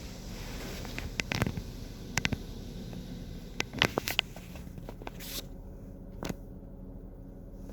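Rollover automatic car wash heard from inside the car: a steady low machine hum under scattered sharp taps and splats of water and wash equipment on the bodywork. A high hiss drops away after about five seconds.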